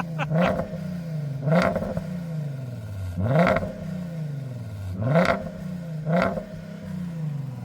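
Volkswagen Passat's 3.6-litre VR6 engine revved in five short throttle blips, each time the pitch jumping up quickly and sliding back down toward idle.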